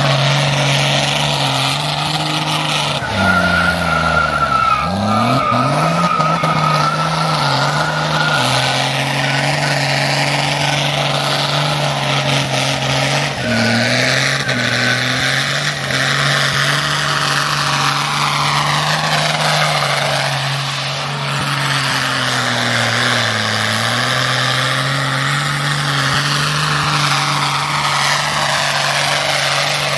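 Race car engine held at high, steady revs, dipping briefly a few times, with a tyre squeal in the first few seconds.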